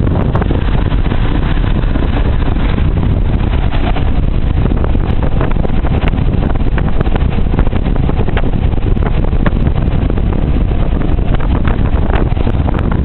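Motorboat under way: a loud, steady mix of engine and rushing water, with wind buffeting the microphone.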